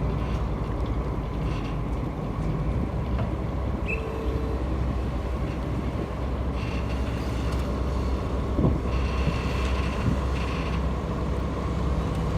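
Small ferry's diesel engine running steadily with a deep low hum, with a couple of short knocks about nine and ten seconds in.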